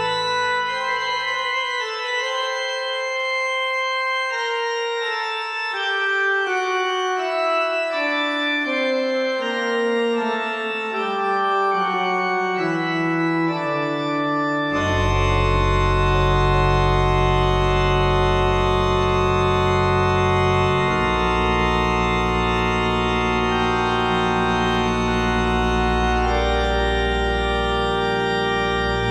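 Church organ playing sustained chords over a slowly descending line, without bass at first. About halfway through, deep pedal notes come in and the sound becomes fuller and louder.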